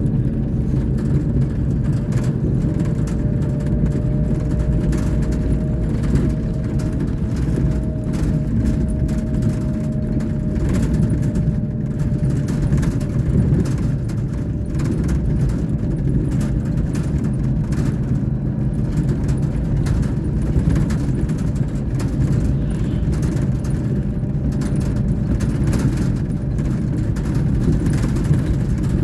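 Diesel engine of a Scania K420 coach running at a steady low drone, with no clear revving, and a faint higher whine fading out about a third of the way in.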